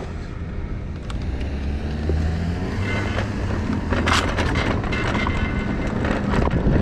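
Low, steady rumble of wind on the microphone and road noise from a moving electric bike, with a brief rattle of clicks about four seconds in.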